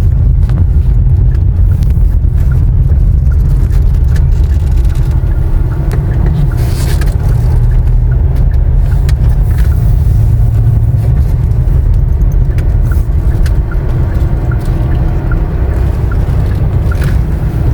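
Car on the move, giving a steady low rumble of engine and road noise.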